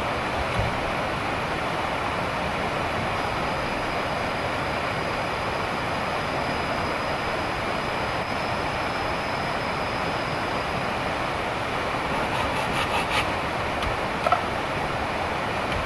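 Heavy rain falling in a steady, even downpour, with a few small knocks and clicks near the end.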